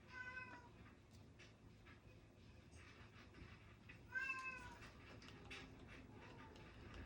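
A domestic cat meowing twice, two short calls about four seconds apart, the second louder. Faint ticks and taps sound in between.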